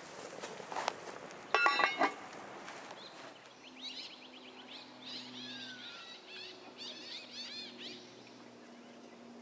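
Wild birds calling. A short, loud, harsh call comes about one and a half seconds in, then a run of rapid chirping and twittering follows for several seconds.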